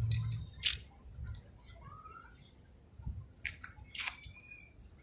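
A few light clicks and taps from small plastic toys being handled and set down, the sharpest about two thirds of a second in and again around four seconds in.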